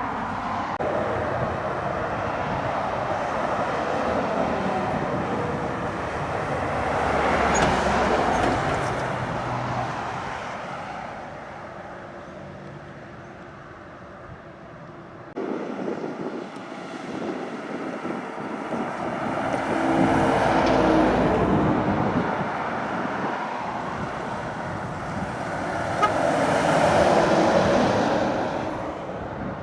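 Heavy trucks climbing a long hill under load, passing one after another, each engine and its tyres swelling up and fading away. The sound changes abruptly about halfway through.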